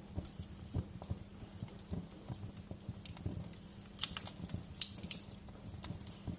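Wood fire crackling: irregular sharp pops and snaps, a cluster of brighter ones about two-thirds of the way through, over a soft low rumble of burning.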